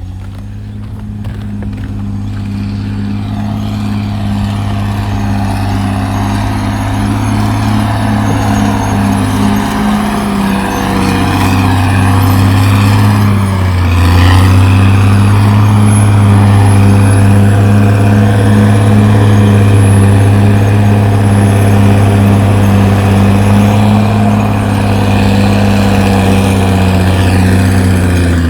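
CAT D6R XL bulldozer's diesel engine running steadily under load, growing louder over the first half, then holding at a steady level.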